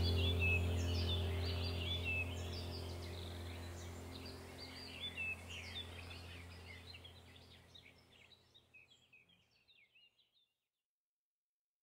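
Birds chirping over a steady low hum. Both fade out evenly to silence about eight seconds in.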